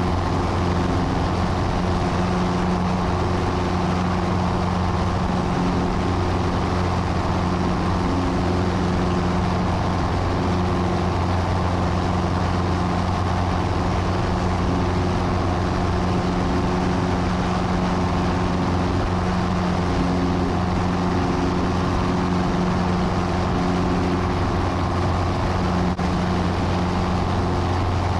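Piper Cherokee's single piston engine and propeller droning steadily at constant power, heard from inside the cockpit, shortly after takeoff.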